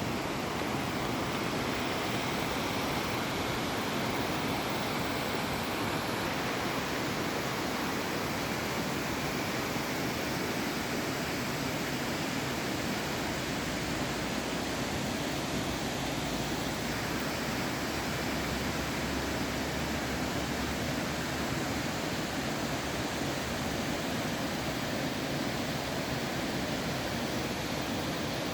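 Steady, even rush of a waterfall, water pouring and splashing without a break.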